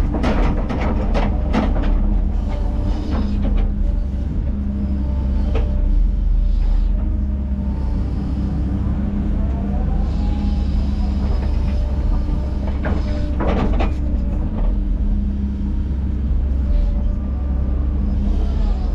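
Bulldozer's diesel engine running steadily, with metal clanks and squeaks from the tracks now and then, several close together near the start and again about two thirds of the way through.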